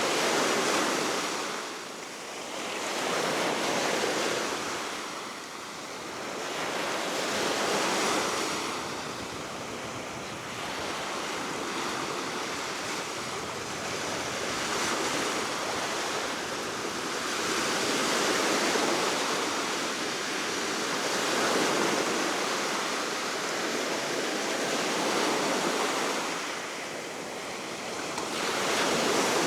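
Baltic Sea waves breaking on the shore below a cliff, the surf swelling and easing every three to four seconds, with steady wind.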